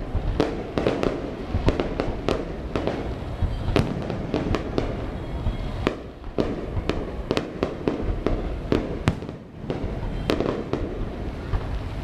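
Aerial fireworks display: a rapid, irregular barrage of bangs and cracks over a continuous low rumble, easing briefly about nine seconds in before picking up again.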